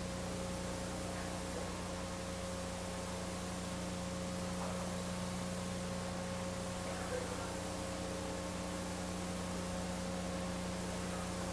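Steady electrical mains hum with a constant hiss, held at one pitch with a few fixed overtones.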